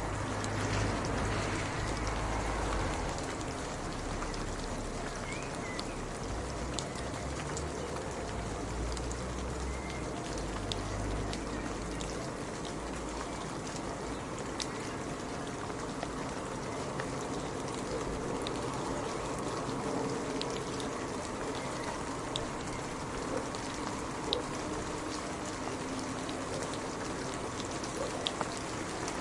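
Steady rain falling, with individual drops ticking sharply here and there. A low rumble sits under it for the first few seconds.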